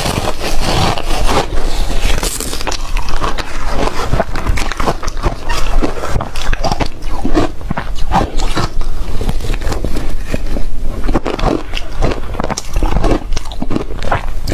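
Close-up crunching of shaved refrigerator ice being bitten and chewed: a dense, irregular run of loud crackling crunches.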